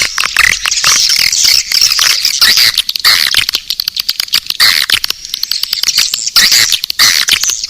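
Dense twittering and chirping of edible-nest swiftlets, many birds at once, laced with rapid clicks throughout. This is a swiftlet call recording played to lure the birds into a swiftlet house.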